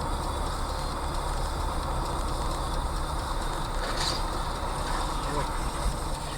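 Steady road and engine noise of a moving vehicle with a low rumble, with a brief high-pitched sound about four seconds in.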